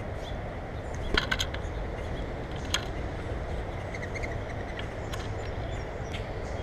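Steady low rumble in the background, with a quick cluster of sharp taps about a second in and another single tap near three seconds, and faint short bird chirps.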